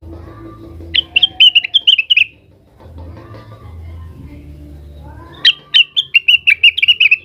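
Cucak wilis leafbird singing two quick bursts of rapid, high chirping notes, the first about a second in and the second near the end, in agitated calling at a rival.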